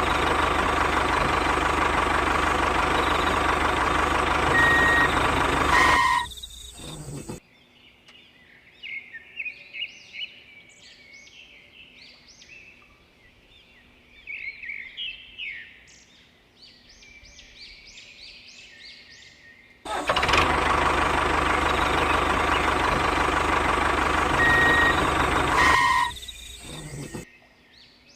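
A loud, steady mechanical running noise for about six seconds that cuts off suddenly. Then comes a quiet stretch with birds chirping. About twenty seconds in, the identical running noise returns for another six seconds and cuts off again.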